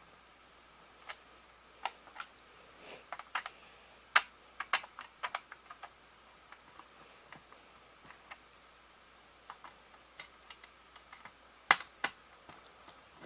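Irregular sharp plastic clicks and taps from handling a VHS cassette shell while its screws are put back in, with a cluster of clicks about four seconds in and a louder click near the end.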